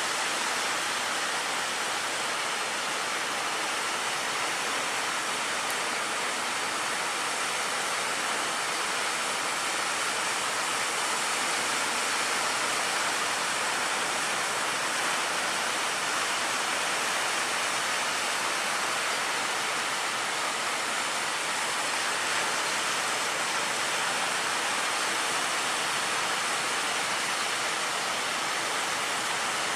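Heavy surf breaking: a steady, even rushing noise of rough sea water.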